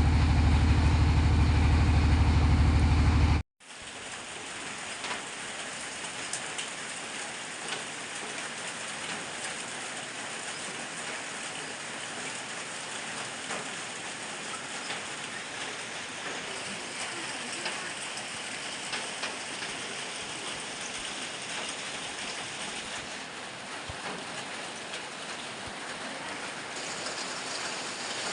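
An engine running steadily for about three seconds, then cut off suddenly; from there on, heavy rain falling in a steady hiss.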